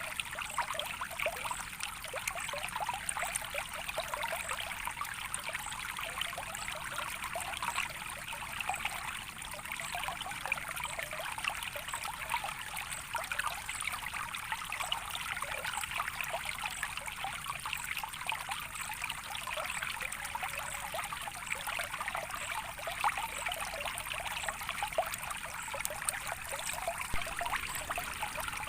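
Natural water flowing and trickling steadily, a soft, even babble of many small splashes with no breaks.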